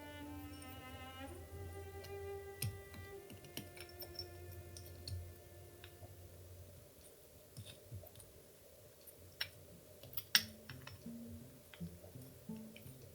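Soft background music with held notes, over scattered sharp clicks and taps of small model engine kit parts being handled, the loudest click about ten seconds in.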